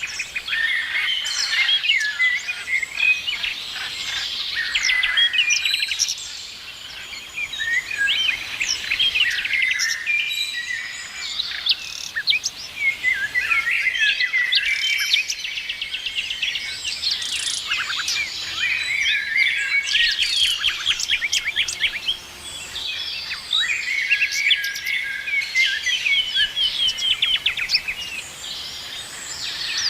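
Many small birds chirping and singing at once: a dense, overlapping chorus of quick high chirps and trills, thinning briefly a few times.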